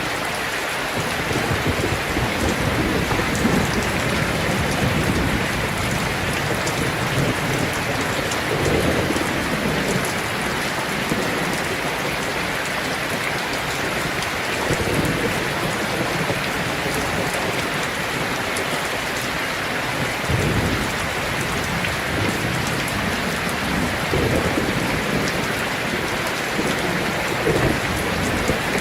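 Heavy rain drumming steadily on a tin roof, with low rumbling swells that come and go underneath.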